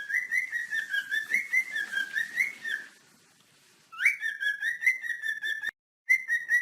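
Cockatiels chirping and whistling in quick, warbling runs, broken by a short pause about three seconds in and an abrupt cut just before six seconds.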